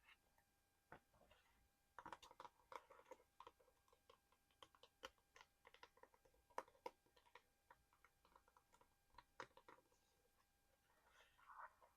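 Fingertips and nails tapping and scratching on small plastic and cardboard collectibles: soft, irregular clicks and taps that pick up after about two seconds, with a brief rustle near the end.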